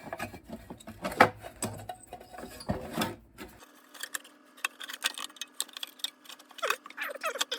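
Small engine parts being handled and fitted back on by hand: a run of irregular light clicks, taps and rattles.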